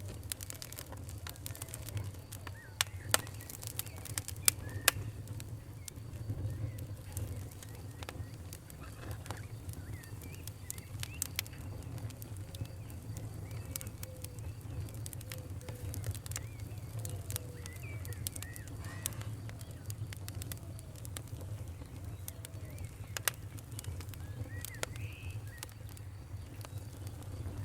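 Campfire crackling, with sharp pops scattered over a low steady rumble of burning wood, and birds calling faintly in the background.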